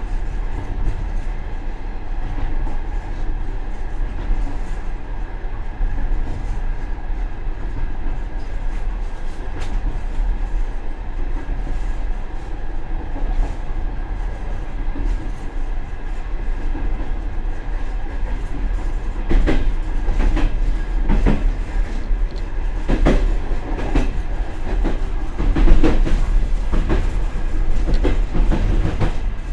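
Passenger train running at speed, heard from the end vestibule of the last car: a steady low rumble of wheels on rail, with sharp irregular clacks of the wheels over the track starting about two-thirds of the way through.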